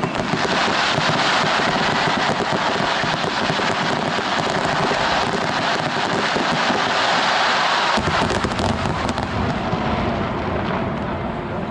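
Aerial fireworks crackling densely, a continuous rapid stream of small pops and crackles. Deeper booms join in from about two-thirds of the way through.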